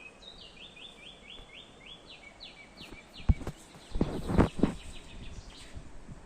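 A songbird singing a quick run of short, repeated notes, about five a second, for the first three seconds. A few loud knocks follow just after the middle.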